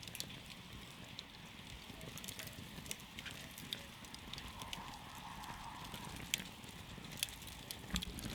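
Wood campfire burning: a steady low rush of flames with irregular sharp crackles and pops, a few louder pops toward the end.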